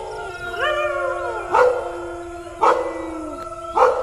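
A dog gives one drawn-out howling cry that rises and then falls in pitch, then barks three times, about a second apart.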